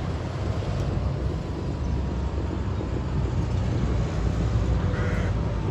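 Vintage tractor engines running with a steady low rumble, as on a tractor road run.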